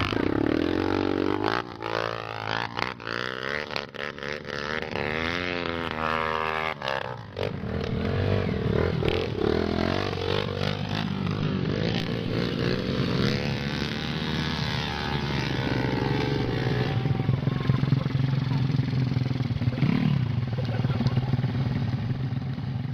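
Off-road trail motorcycle engine revving, its pitch rising and falling again and again for the first several seconds, then running hard at high revs without letup.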